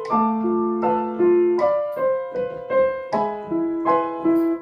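Piano played with both hands in A minor: low held bass notes under a line of single notes above, struck at a steady practice pace.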